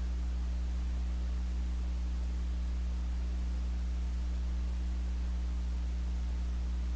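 Steady electrical mains hum: a constant low buzz with a few fainter higher tones over an even hiss, with no music or voice.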